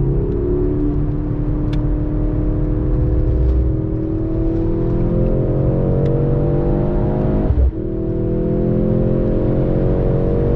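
Mercedes-AMG C63 S E Performance's 2.0-litre turbocharged M139 four-cylinder accelerating hard, its pitch rising steadily under full load. There is one brief break about seven and a half seconds in, like a gear change, before it keeps pulling.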